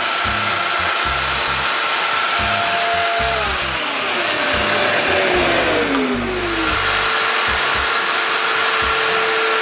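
Festool Domino joiner's motor running while it cuts mortises in cedar rails, a steady whine and cutting noise. Around the middle its pitch drops for a couple of seconds, then settles back to a steady tone.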